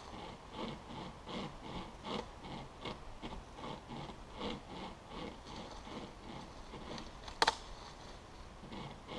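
Chain-type survival saw cutting through a fallen branch, its toothed chain pulled back and forth in steady rasping strokes a little over one a second. About seven seconds in comes a single sharp crack, the loudest sound.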